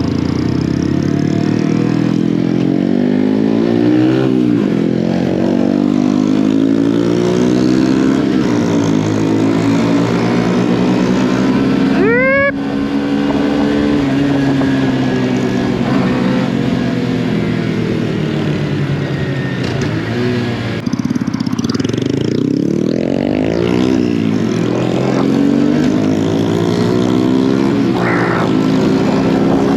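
Mini motorcycle engines running while riding, their pitch rising and falling repeatedly as they rev and shift. About 12 seconds in there is a brief sweeping rise in pitch.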